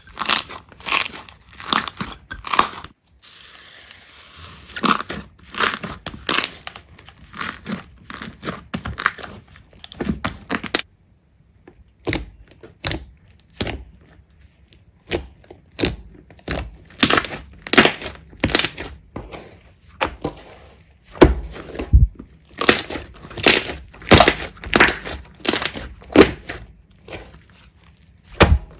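Slime being pressed and squeezed by hand, giving a series of short crunchy crackles about two a second, with a brief pause a little before the middle.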